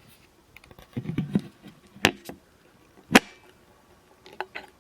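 Handling noises: a low rustle about a second in, then two sharp clicks about a second apart, with a few fainter ticks near the end.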